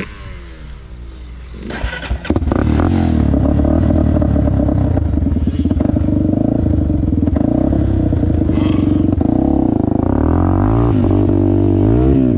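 Off-road vehicle engine running close by: quieter for the first two seconds, then a few knocks and the engine comes in loud and runs steadily under throttle, its pitch rising and falling near the end.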